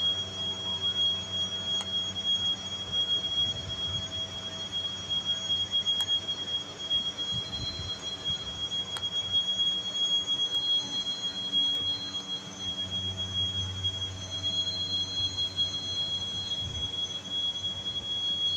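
Steady high-pitched whine over a low engine drone as an Airbus A330 is towed out of a hangar, from the aircraft and its tow tractor.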